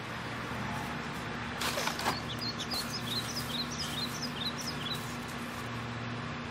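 A bird sings a quick series of high, falling chirps for a few seconds, over a steady low hum. Just before the chirps a brief scraping rustle comes from soil and a plant being handled.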